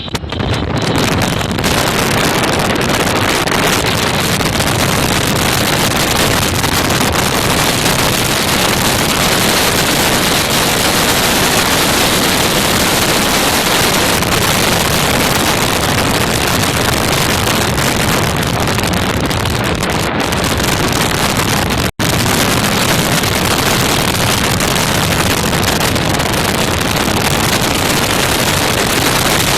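Loud, steady wind rushing over the microphone, with a split-second cut-out about 22 seconds in.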